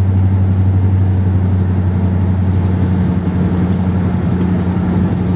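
1957 Ford Thunderbird's V8 running steadily under way, with road noise, heard from the driver's seat. The engine is running pretty good on its two-barrel carburettor setup and fresh spark plugs.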